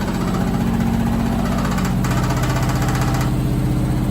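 Candy SmartTouch washing machine in a fast spin with an unbalanced load: rapid, even knocking from the drum and cabinet over a steady motor hum.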